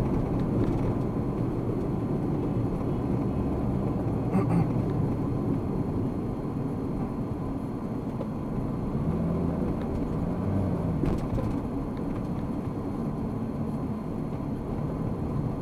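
Steady low rumble of a car driving, with road and engine noise heard from inside the car.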